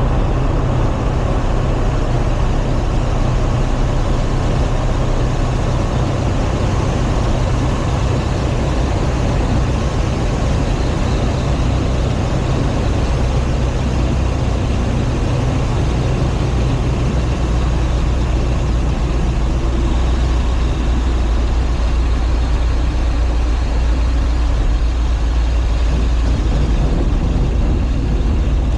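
Light taildragger airplane's piston engine and airflow droning steadily in the cockpit through a landing; the low engine note shifts a little past the middle.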